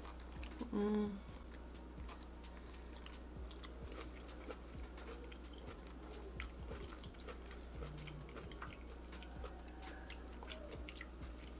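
Close-miked chewing and biting of a Cajun-butter-coated prawn, with many small wet mouth clicks and smacks. There is a short voiced "mm" about a second in.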